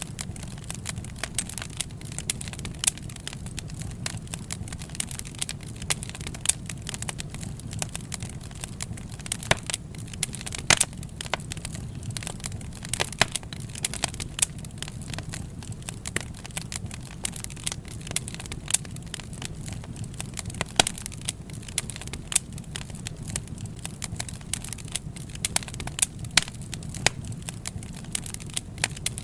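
Burning wood fire crackling, with irregular sharp pops and snaps several times a second over a steady low rumble of the flames.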